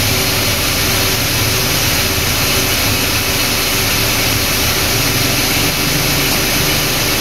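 Car engine idling with its AC compressor engaged while the system is charged with refrigerant: a steady engine-bay whir and hiss with a faint constant hum.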